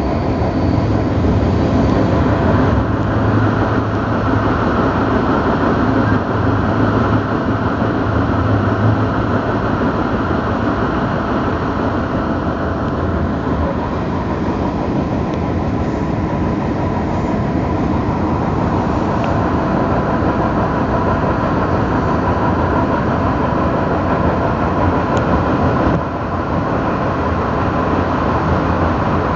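Passenger train running along the line, a steady rumble heard from inside the carriage. About 26 seconds in, the sound drops and changes abruptly as the train enters a tunnel.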